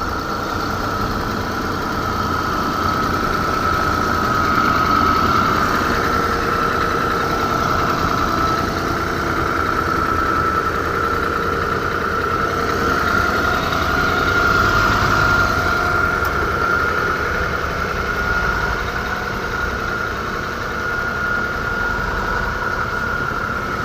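Vehicle engines running steadily during a tractor pull to free a stuck vehicle from mud, with a steady high whine throughout.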